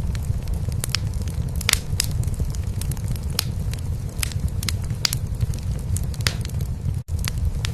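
A cat purring as a steady low rumble, mixed with a wood fire crackling in a fireplace with sharp, irregular pops. The sound cuts out for an instant about seven seconds in.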